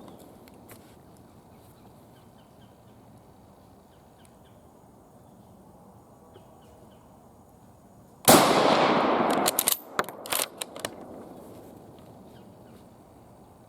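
A single rifle shot from a Japanese Type 38 6.5 mm Arisaka bolt-action rifle about eight seconds in, its report dying away over about a second and a half, followed by a few sharp clicks.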